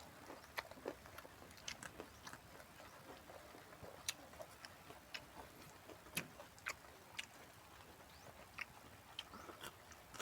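A person chewing and crunching fresh raw vegetables, heard as faint, irregular crunches and clicks.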